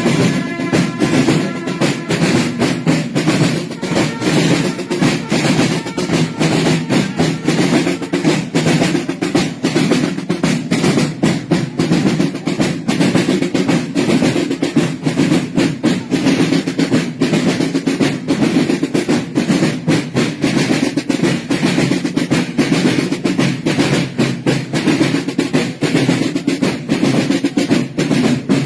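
Massed marching snare drums playing a fast, continuous rolling rhythm, dense strokes without a break.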